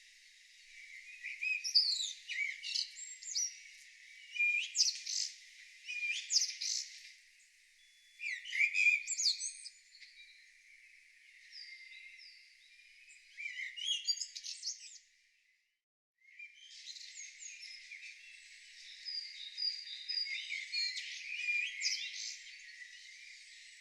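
Wild songbirds singing in short phrases of chirps and trills, with nothing heard below the birds' high register. The song cuts out completely for about half a second roughly two-thirds of the way through, then resumes as a denser chorus of several birds.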